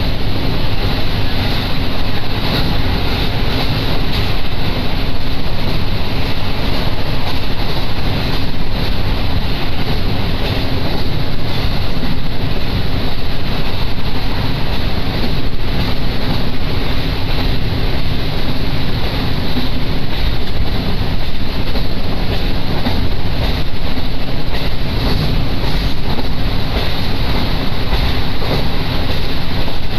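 Steady running noise of a diesel train in motion, heard from on board: a constant low hum under loud rushing noise with wind buffeting the microphone.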